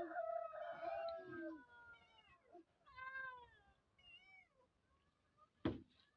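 Domestic cat meowing repeatedly, a run of drawn-out meows that grow fainter and shorter, followed by a single sharp click near the end.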